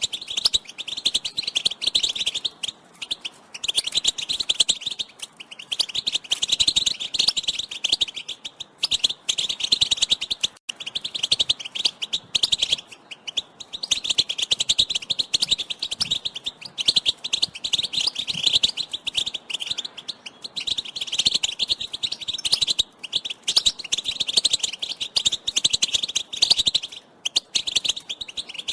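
European goldfinch twittering: rapid, dense chattering calls in runs of a few seconds, broken by short pauses.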